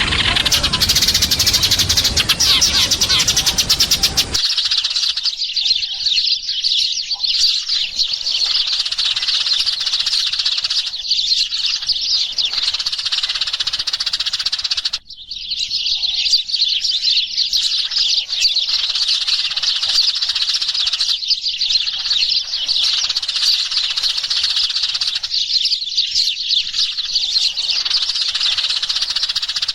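A flock of sparrows chirping and chattering without a break: a sparrow lure recording meant to call other sparrows in. For the first four seconds or so the chatter is coarser and fuller. About halfway through it drops out for a moment, then resumes.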